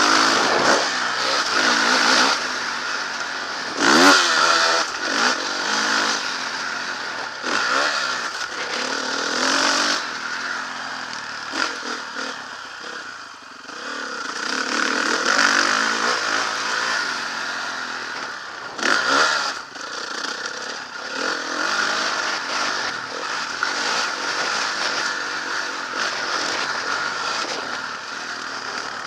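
Motocross bike engine being ridden hard, revving up and down with the throttle and gear changes, with sharp rises in pitch about four seconds in and again near nineteen seconds.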